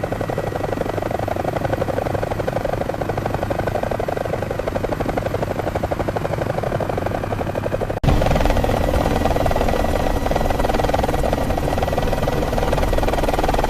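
Helicopter rotor blades chopping at a fast steady rate. About eight seconds in it cuts abruptly to a louder, deeper rotor sound.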